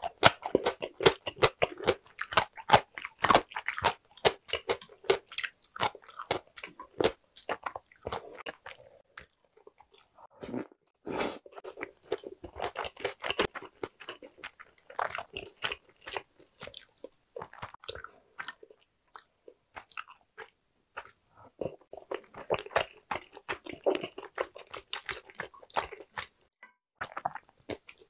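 A person chewing and biting while eating egg tteokbokki, with boiled eggs and rice cakes in spicy sauce. The chewing comes in several bouts with short pauses between.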